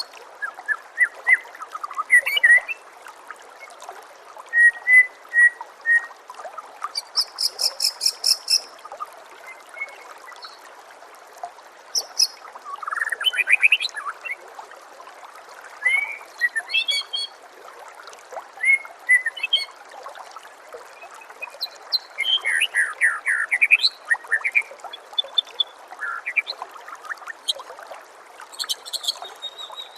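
Songbird song from a white-rumped shama training recording: short phrases of whistles, rising and falling sweeps, chatters and fast high trills, with pauses of a second or two between them. A steady trickle of running water goes on underneath.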